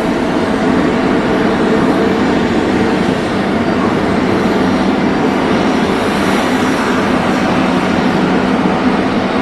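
Jet airliner engines running, a loud, steady noise with a low hum underneath.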